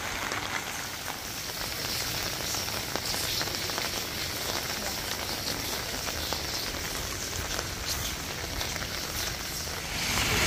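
Steady rain falling, an even hiss with many small drop ticks through it. It swells louder in the last moment.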